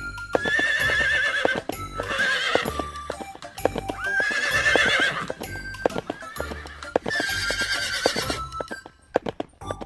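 A horse whinnying about four times, each a long quavering call, with hoof clip-clops between the calls over background music.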